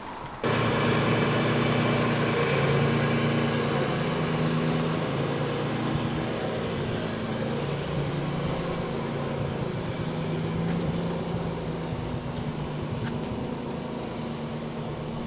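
Naturally aspirated Nissan 300ZX's V6 engine running as the car drives, its pitch drifting gently up and down. The sound comes in abruptly about half a second in.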